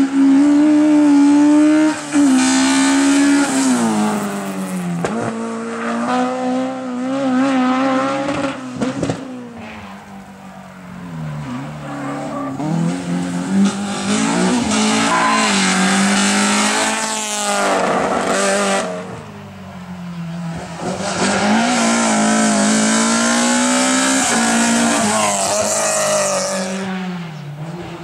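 Race car engines at full throttle, the pitch climbing and dropping sharply through gear changes and lifts, with two lulls as the cars move away and the next approach.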